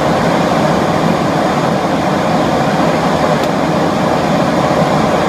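Steady rushing noise of a Boeing 737 airliner in flight, airflow and engine noise heard from inside the aircraft.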